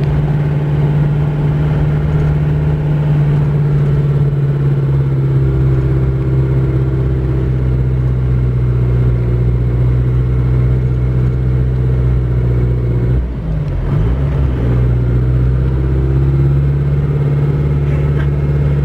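Isuzu Panther's diesel engine pulling steadily, heard from inside the cabin, working under load with about 500 kg of rice aboard and the AC on. About two-thirds of the way through, the engine note briefly dips and bends back up.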